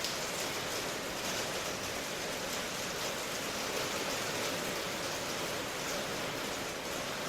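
Steady rain, an even hiss of falling rain with no single drops standing out.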